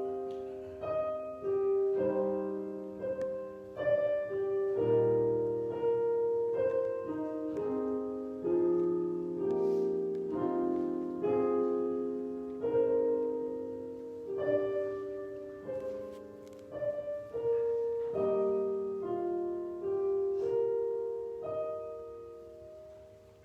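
Solo piano playing a slow prelude in chords, each note struck and decaying, the music fading away near the end.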